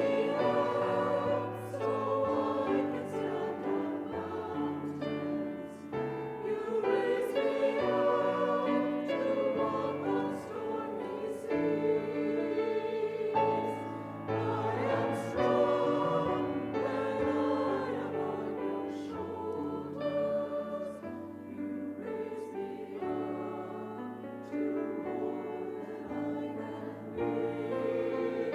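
Choral music: a choir singing slow, held notes over a steady instrumental accompaniment.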